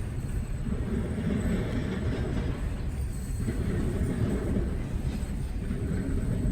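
Freight train rolling past: a steady low rumble of railcars with a recurring clatter of wheels on the rails.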